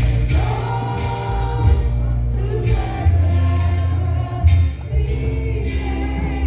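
Congregation singing a gospel hymn with amplified instrumental accompaniment and a steady bass.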